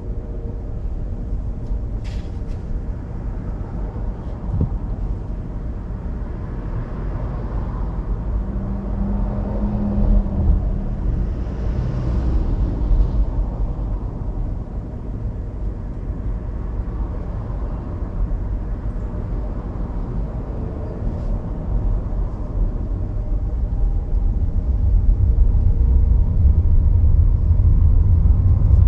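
Car on the move: steady low road and engine rumble, growing louder over the last few seconds.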